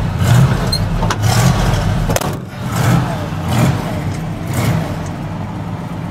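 Engine running shortly after a cold start, with a steady low rumble. A few short knocks and clicks sound over it.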